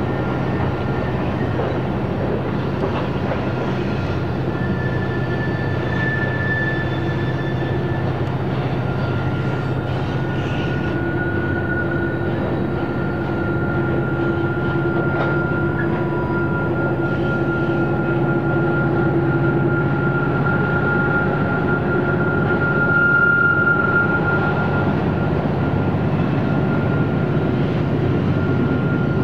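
Freight train rolling by with a steady low rumble, with high-pitched wheel squeal coming and going and loudest a little over three-quarters of the way through.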